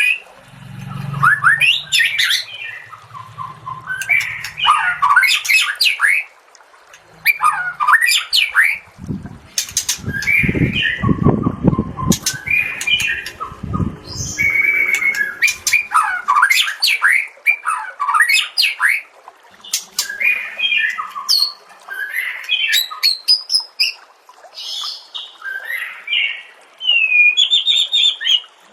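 White-rumped shama (murai batu) singing a long, varied song of rapid whistles, trills and chatters, with mimicked notes of other birds, broken by brief pauses. A low rumbling noise runs underneath for a few seconds in the middle.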